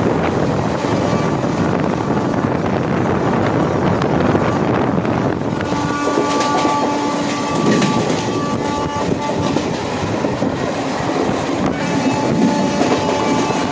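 Express passenger train running on the rails with a steady rumble. A horn sounds about six seconds in for roughly three seconds, and again more faintly near the end.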